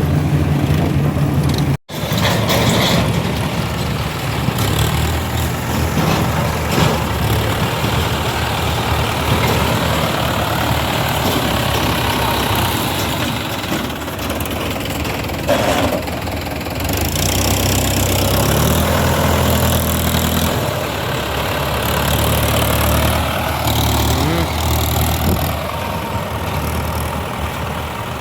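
Mahindra tractor's diesel engine running, its low note shifting as engine speed changes, with a heavier low drone from about 17 to 21 seconds in. The sound cuts out for an instant about two seconds in.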